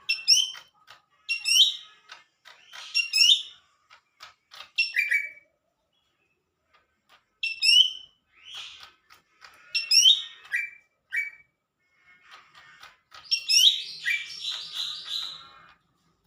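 Green leafbird (cucak ijo) singing a string of short, bright, chirpy phrases of quick sweeping notes, with a pause of about two seconds partway through.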